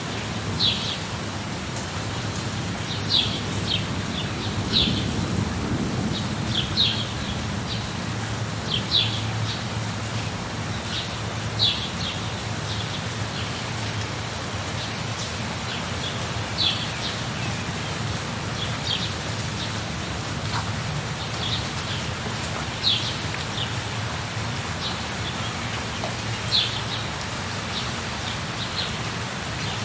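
Steady rain with a low rumble of thunder that swells about five seconds in. Short, high bird chirps repeat every couple of seconds over it.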